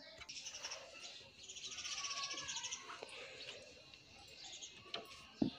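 Birds chirping and trilling faintly in the background, with one short knock near the end.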